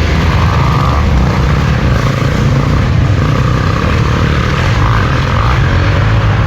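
Dirt bike engines running on the track: a steady loud drone with a higher engine whine that comes and goes as the bikes pass.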